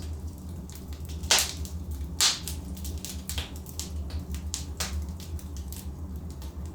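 Burning logs in a fireplace crackling: irregular sharp pops and snaps, the two loudest about a second and a half and two and a half seconds in, over a steady low rumble.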